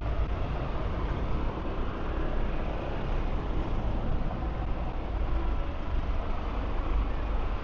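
Steady city street traffic: a continuous low rumble of cars and buses running past.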